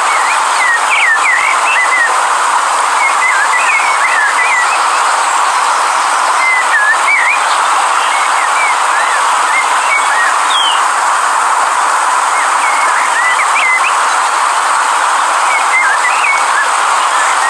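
River water rushing steadily, with birds chirping short whistled notes on and off throughout.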